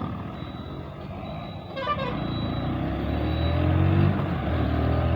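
Motorcycle engine running, getting louder from about two seconds in and rising gently in pitch as it accelerates.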